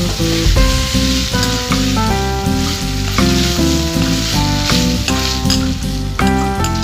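Chicken Manchurian sizzling and frying in a kadai with its sauces. Background music with stepped melody notes and bass plays over it throughout.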